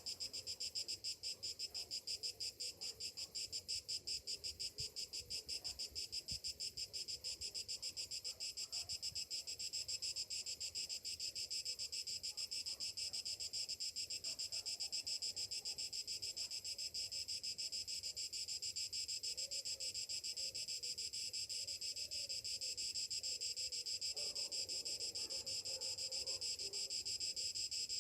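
A cicada chorus: a steady, dense, high-pitched buzz that pulses very rapidly. Fainter irregular sounds lie beneath it.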